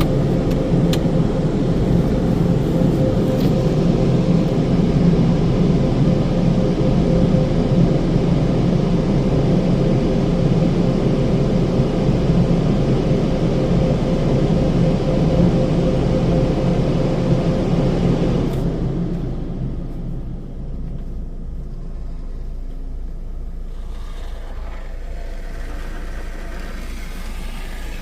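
Istobal FLEX5 touchless car wash machinery running loudly and steadily with a thin whine, shutting off about 18 seconds in and leaving a quieter low rumble.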